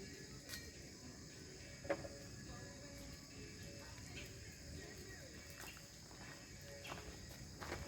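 Steady chorus of crickets, even and high-pitched, with a few faint clicks and pops, the loudest about two seconds in.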